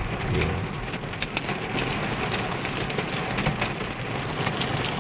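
Heavy rain falling on a car, heard from inside the cabin: a steady hiss with many scattered sharp hits of drops striking the body.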